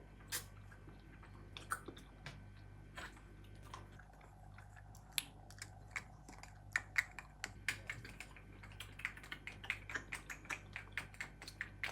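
Close-miked candy sounds: scattered crisp clicks and crunches, turning into a quick run of light clicks, several a second, over the second half.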